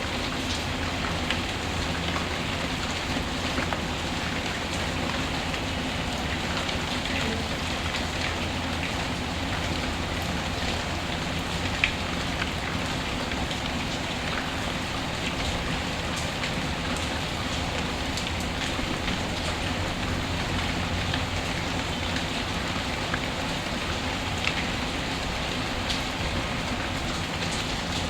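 Steady, even rainfall, with scattered sharp ticks and pops, the loudest about twelve seconds in.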